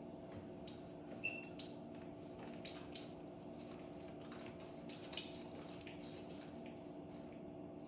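Irregular light metallic clicks and clinks, as of small metal tools or parts being picked up and set down, over a steady low electrical hum.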